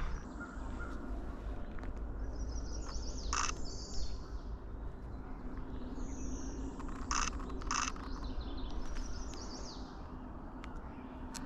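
A songbird singing high trilled phrases, repeated about every four seconds, over a steady low rumble of outdoor noise. A few sharp clicks fall among the phrases.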